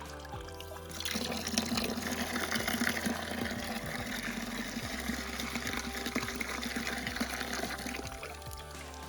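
Water running hard out of the well-water pipe, starting about a second in and dying away near the end, over background music.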